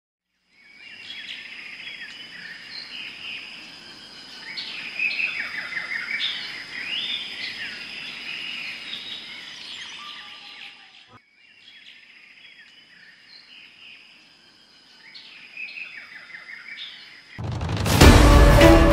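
Wild birds chirping and singing, many short calls and trills over a steady high tone, with a brief break about eleven seconds in. Loud music starts near the end.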